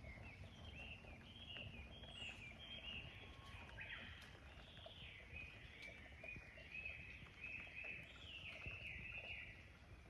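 Small animals calling faintly: a run of short, repeated high-pitched calls, several overlapping, growing denser about four seconds in, over a low steady background hiss.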